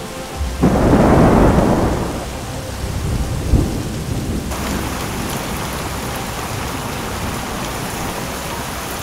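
A loud thunderclap about half a second in that rumbles for over a second, then a second short low boom a few seconds in, over heavy rain falling steadily.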